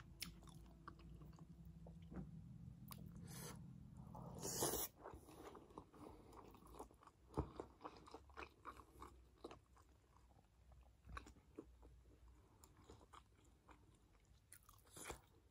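Close-miked mouth sounds of a person chewing steamed chicken momos: faint, scattered soft smacks and clicks, with a louder brief burst about five seconds in.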